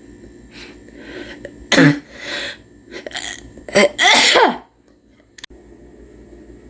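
A person coughing several times in a row, in rough throaty bursts, followed by a single sharp click.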